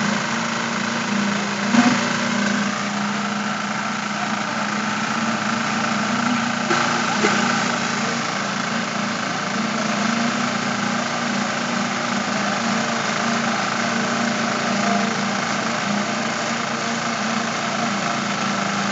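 Construction machinery engine running steadily at a concrete slab pour, with a constant drone. A couple of brief knocks come about two seconds and seven seconds in.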